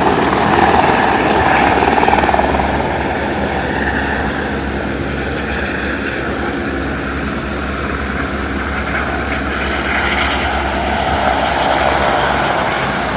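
Helicopter flying over: a steady rotor and engine drone, loudest in the first couple of seconds and easing off a little after that.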